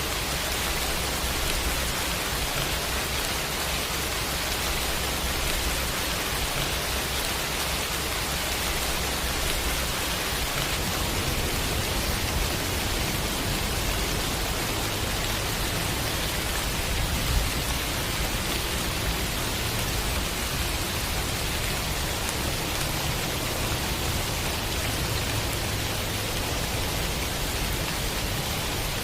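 Steady rain falling, an even hiss with no breaks, over a low steady hum that moves up in pitch about ten seconds in. One sharp tap stands out a little past halfway.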